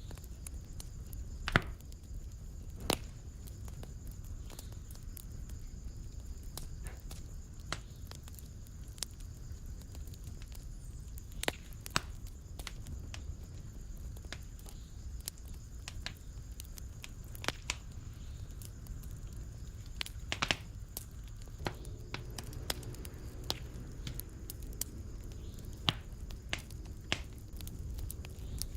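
Wood fire in a fireplace crackling: a low steady rumble of flames with irregular sharp pops and snaps, the loudest about one and a half and three seconds in.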